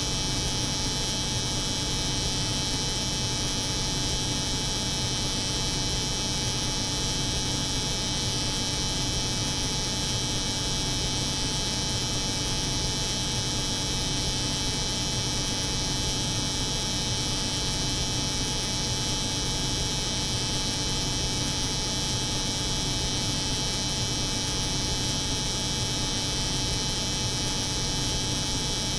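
Layered steady drone of a cold room's refrigeration hum and an electric hair clipper buzzing, continuous and unchanging.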